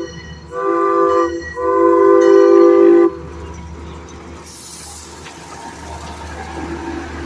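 Amusement-park train's horn sounding two blasts, a short one and then a longer one, as a chord of steady tones that cuts off suddenly about three seconds in. After that comes the lower steady rumble of the passing train.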